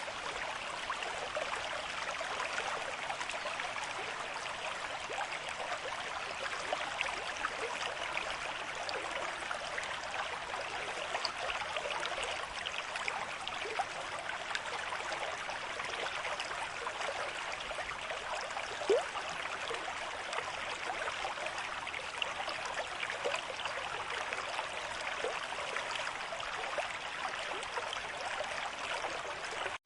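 River stream at moderate flow: steady rushing, babbling water with small trickles and gurgles throughout, and one brief louder gurgle about two-thirds of the way through.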